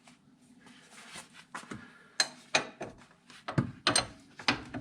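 Quiet for about two seconds, then a run of sharp metallic clicks and knocks, a few each second, as a spanner is worked on the nut of a VW T25 upper suspension arm to slacken it.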